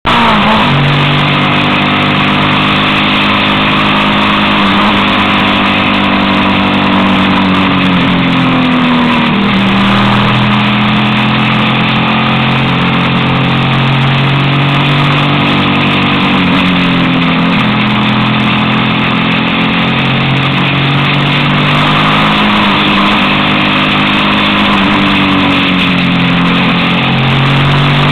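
Suzuki SV 650's V-twin engine running on the move under a steady rush of wind noise. Its note rises and falls with the throttle, dropping in pitch every several seconds.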